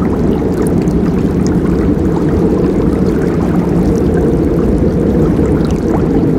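Forest river flowing: a deep, steady rush of water that keeps an even level, with faint light ticks above it.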